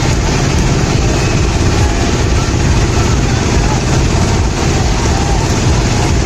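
A heavy engine running steadily at a constant level, under a dense wash of noise with a few faint, short whistle-like tones.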